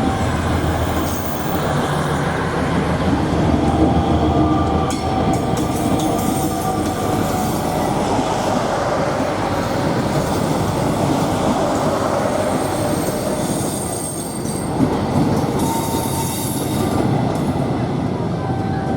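Prambanan Ekspres diesel multiple unit rolling past close by, a steady rumble of wheels on rail with faint thin squeals and bursts of clatter over the rail joints about five seconds in and again near the end.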